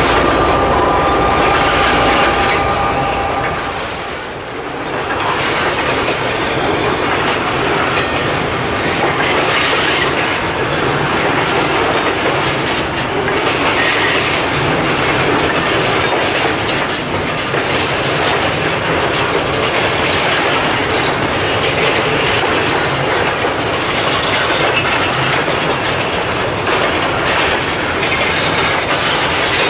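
Freight train of steel coil cars rolling past: steady wheel-on-rail rumble and clatter. A thin, high wheel squeal rings over it for the first few seconds. The noise dips briefly about four seconds in, then carries on.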